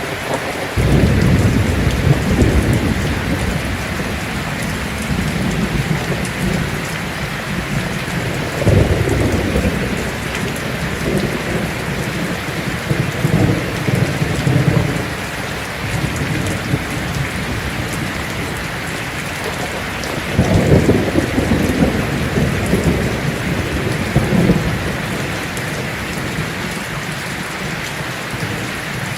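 Heavy rain drumming steadily on a tin roof, with rolling thunder rumbling in about a second in, again around nine seconds in, and again around twenty seconds in.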